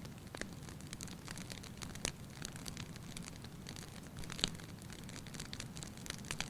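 Fireplace fire crackling: a steady low hiss with scattered sharp pops, the loudest about two seconds in and again about four and a half seconds in.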